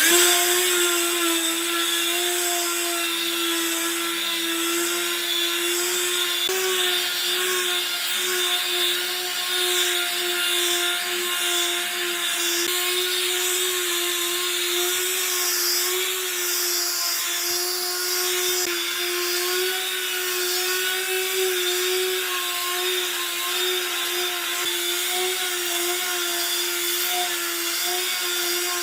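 High-speed electric power tool running steadily on wood, a constant motor whine over a hiss, its pitch shifting slightly a few times as it is worked.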